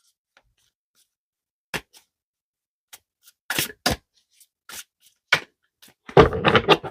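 A deck of oracle cards being shuffled and handled: scattered sharp card snaps and clicks, then a quick flurry of them about six seconds in.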